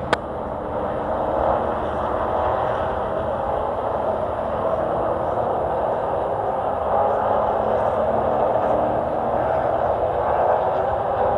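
Race truck engine running hard at speed, a steady dense drone heard on board.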